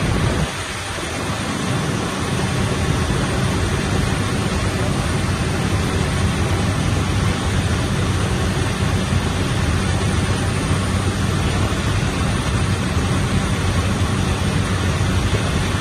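Steady cabin noise of an aircraft in flight: a constant engine drone with a rush of air, briefly dipping about half a second in, then holding level.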